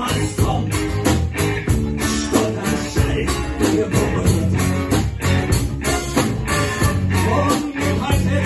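Rock band music with guitar and a tambourine over a steady beat.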